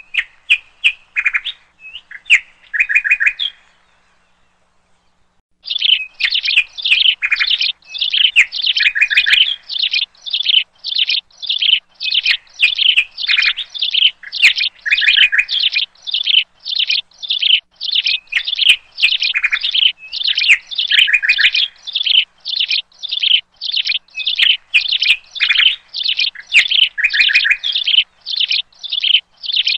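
Bird-like chirping: a few short, bright chirps, a pause of about two seconds, then a steady, regular run of about two chirps a second.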